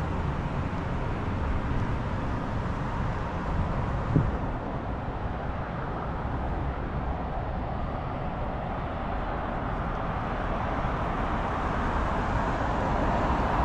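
Street traffic: a steady wash of road noise from passing cars, with a low rumble at first, a short knock about four seconds in, and the traffic noise growing again near the end.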